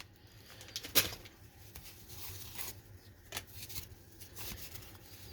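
Baseball cards being handled and flipped through one by one: faint rustle of card stock with a few light clicks and taps as cards slide and are set down, the sharpest about a second in.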